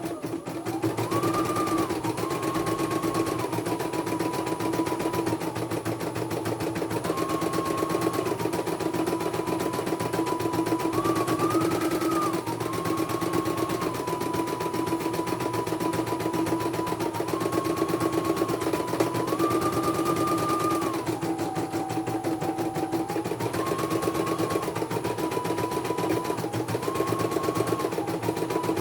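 Computerized embroidery machine stitching at speed: a rapid, even needle clatter under a motor whine that steps up and down in pitch every few seconds as the stitching changes.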